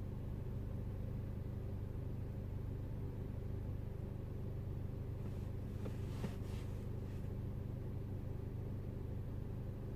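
Peugeot RCZ's 1.6 THP turbocharged four-cylinder petrol engine idling steadily, with a single short click and faint hiss about six seconds in.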